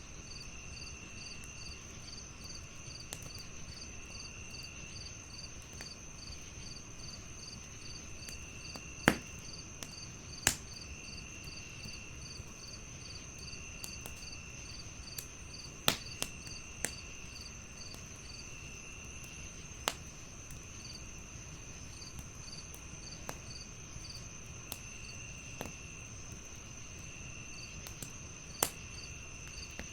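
Wood fire crackling softly, with several sharp pops standing out, over a steady chorus of crickets chirping in an even rhythm of about two chirps a second, with a higher steady insect trill.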